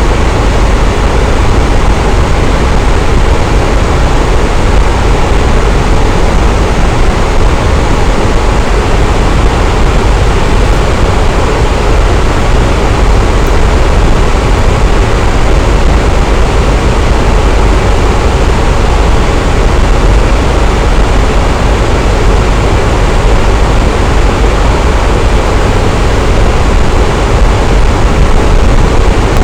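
Electric fan running steadily: an even, loud rushing whoosh of moving air with a deep low hum and no change in speed.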